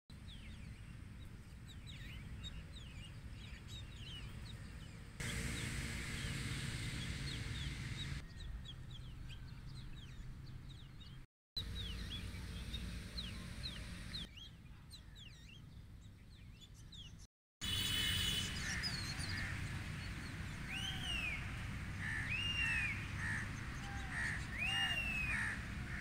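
Birds calling in trees: many short, quick downward chirps, then, from about two-thirds through, louder repeated arching calls. A low steady rumble runs underneath.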